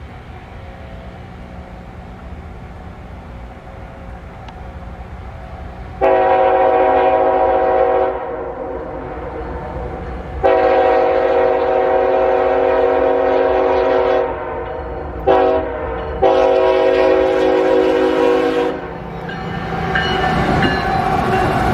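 CSX freight locomotive's air horn sounding the grade-crossing signal: two long blasts, one short and one long, each a chord of several notes. A low engine rumble runs under it, and near the end the train arrives, its rumble and wheel clatter growing loud.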